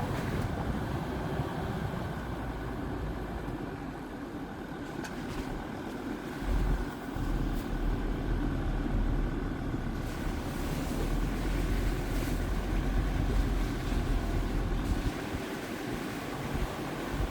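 Jeep Grand Cherokee WJ's 2.7 CRD diesel engine running as the vehicle drives, a steady rumble that grows heavier and deeper from about six seconds in.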